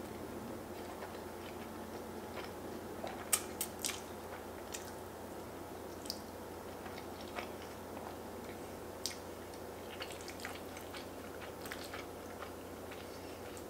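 Close-up eating sounds: chewing mouthfuls of curry-sauced fettuccine, with scattered sharp clicks and smacks from the mouth. The loudest is a quick cluster of clicks about three seconds in.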